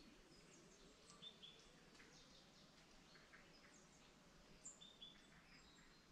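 Near silence in a forest, with faint, short bird chirps scattered through, a few of them in quick pairs.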